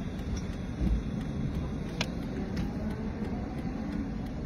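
Low steady rumble of an idling car, with a short click about two seconds in.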